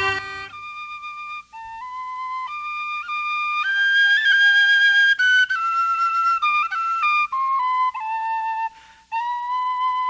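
Tin whistle playing a slow traditional tune alone, one clear line of held notes stepping up and down with small flicks between them. A fuller accompaniment with a low part stops about half a second in.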